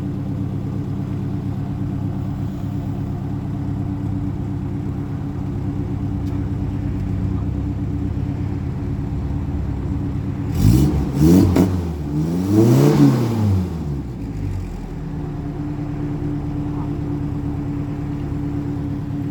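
Shay Thunderbird's Ford 2.3-litre four-cylinder idling through its new exhaust, an equal-length header into a Borla Pro XS muffler. About ten seconds in it is revved three times, two quick blips and then a longer rev, before it settles back to a steady idle.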